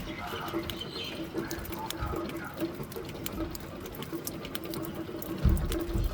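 Rain pattering, with scattered sharp drop ticks over a light hiss, and a low thump about five and a half seconds in.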